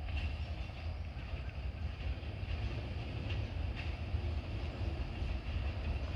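Diesel switcher locomotive running with a steady low rumble as it shoves cars out of the yard backwards.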